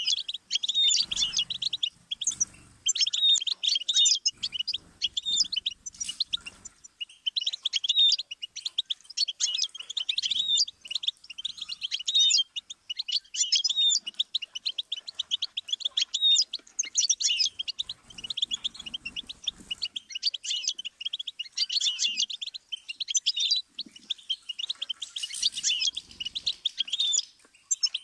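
Goldfinch song: a fast, nearly unbroken twittering warble of trills and chirps with only brief pauses. Faint low bumps sound a few times beneath it.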